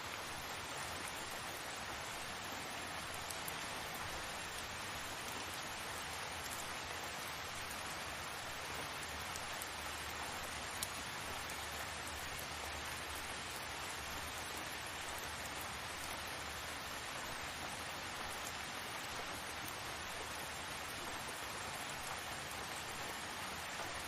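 Steady rain falling: an even hiss, with an occasional faint tick.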